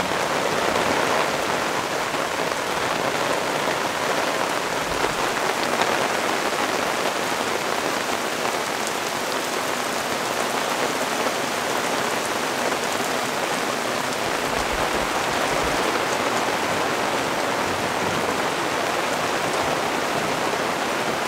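Heavy rain in an intense downpour, pouring onto the forest trees and foliage. It makes a steady, dense hiss that does not let up.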